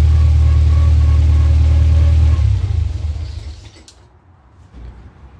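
Car engine idling steadily with a low, even hum, then switched off about two and a half seconds in, its sound dying away over about a second.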